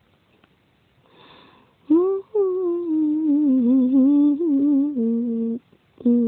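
A girl humming a tune with her mouth closed: a long, slowly wavering phrase followed by a couple of shorter held notes near the end, after a short breath about a second in.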